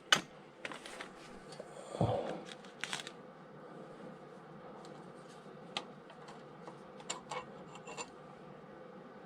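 Hand tools being handled on a stuck engine bolt: scattered light metallic clicks and scrapes, with a short thud about two seconds in.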